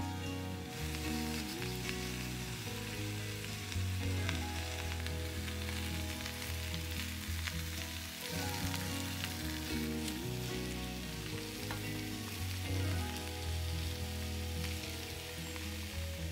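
Food frying in olive oil in a pan, sizzling steadily.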